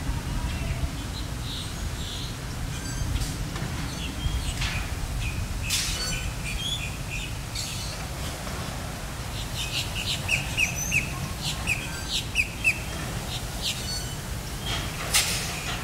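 Small birds chirping off and on, with a quick run of short, sharp chirps about two-thirds of the way through, over a steady low rumble.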